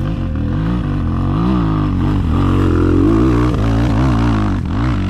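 Chinese enduro motorcycle engine revving up and down repeatedly while climbing a steep hill, its pitch rising and falling several times and highest about midway.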